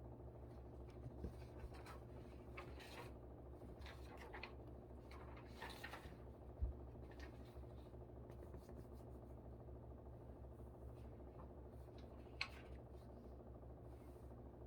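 Quiet, steady hum of a room air conditioner, with faint scratching and rustling of pen and paper during the first half, a soft thump about six and a half seconds in and a short click near twelve seconds.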